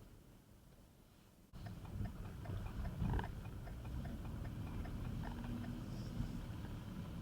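Steady low rumble of a car driving, with many small scattered clicks and ticks. It jumps suddenly louder about a second and a half in.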